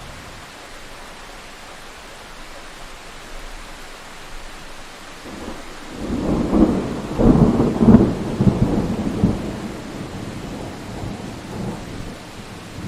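Thunderstorm: steady rain hiss, then a thunderclap breaks in about six seconds in. It rumbles loudly for a few seconds and dies back into the rain.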